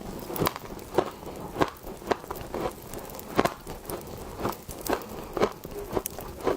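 Soft, powdery freezer frost being bitten and chewed close to the microphone: a steady run of short crunches, about two a second.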